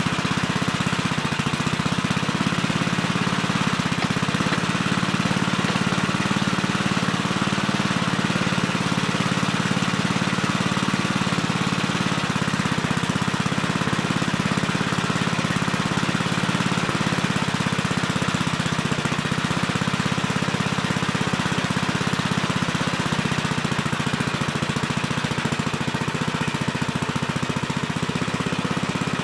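Gravely Terramite compact backhoe's engine running steadily as the backhoe digs, its pitch wavering slightly now and then.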